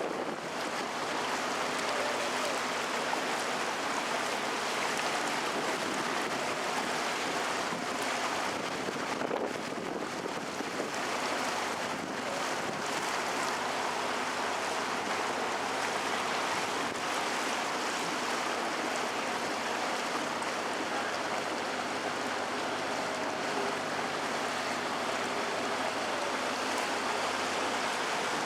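Steady rushing of water and wind as a canal tour boat moves along, with a faint low hum of the boat's motor underneath.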